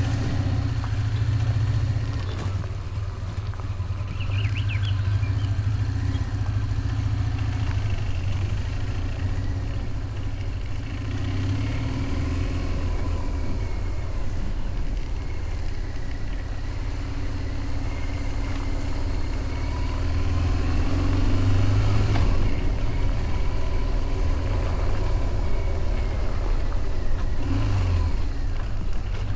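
BMW motorcycle engine running steadily under way, a continuous low drone whose pitch drifts only slightly, getting a little louder about three quarters of the way through.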